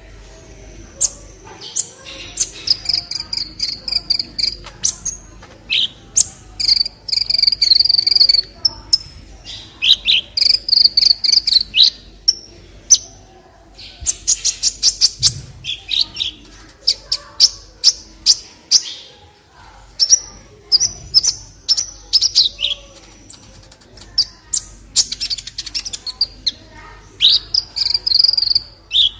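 Kolibri ninja sunbird singing: loud, high-pitched phrases of rapid chirps and buzzy trills, repeated again and again with short pauses between them.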